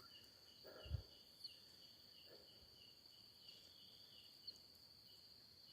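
Faint night insects, crickets, chirping steadily in a high, even pulse about three times a second, with a soft low thump about a second in.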